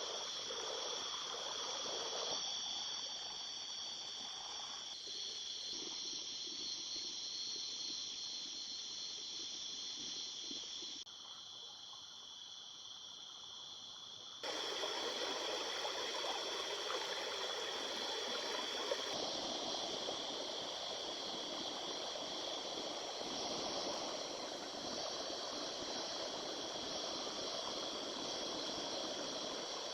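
Crickets and other insects chirring steadily over the running of a small river. The water sound drops away abruptly for a few seconds near the middle, leaving mostly the insects, then comes back.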